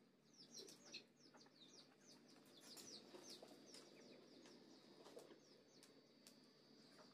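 Near silence, with a bird chirping faintly in a quick run of short, high chirps through the first half or so.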